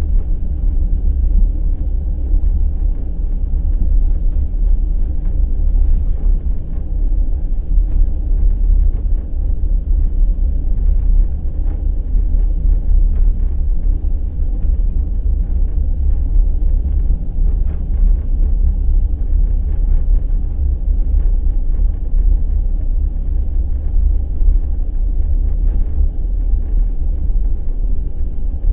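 Wheels of the night express passenger train 202 Kovel–Kyiv running over the rails: a loud, steady, deep rumble with faint irregular clicks.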